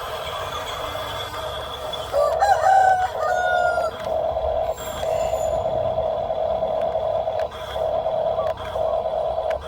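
Steady high whine of a radio-controlled model vehicle's electric motor and gearbox, cutting out briefly a few times near the end. About two seconds in, a rooster crows once, louder than the motor.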